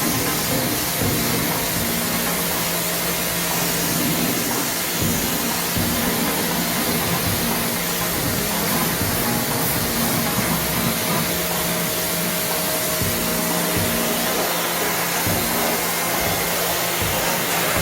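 High-pressure washer spraying water in a steady hiss over the unit's parts, with the washer's motor humming underneath.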